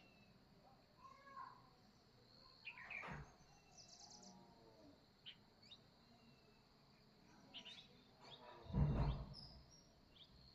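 Birds chirping and calling in short, scattered notes. A louder low noise, lasting about half a second, comes near the end.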